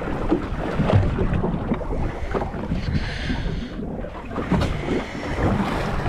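Wind buffeting the microphone on a small fishing boat at sea, with water slapping the hull and scattered knocks. A short hiss comes about three seconds in.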